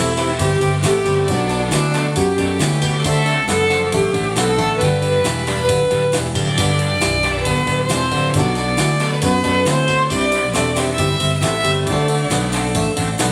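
Violin playing a simple children's song melody in short, even notes over an accompaniment with a bass line and a steady beat.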